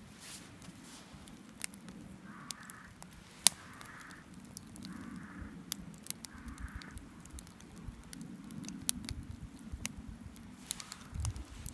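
Wood campfire crackling, with scattered sharp pops. About two seconds in, four short calls sound in the background, evenly spaced over roughly four seconds.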